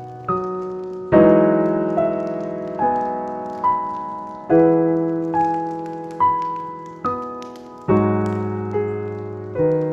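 Slow solo piano music: notes and chords struck about once a second, each left to ring and die away.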